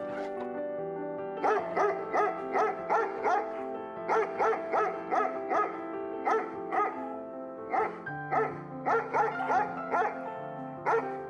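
An animal giving quick short calls, about three a second, in two runs with a brief pause between, over background music of sustained notes.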